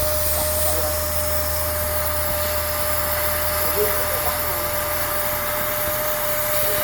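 A70 plasma cutter running: a steady hiss of the air-plasma arc with a constant high-pitched whine. A low hum underneath stops about five seconds in.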